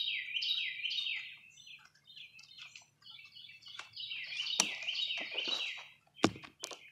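A songbird chirping: quick runs of short down-slurred chirps, repeated over and over. A sharp click about halfway through, and a louder thump near the end.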